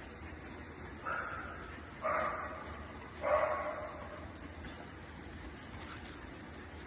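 A dog barking three times, about a second apart; the last bark is the loudest.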